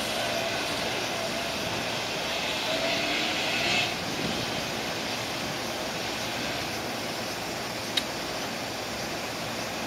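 Steady mechanical whir of electric trains standing at a station platform, with a brief hiss that builds and cuts off about four seconds in and a sharp click about eight seconds in.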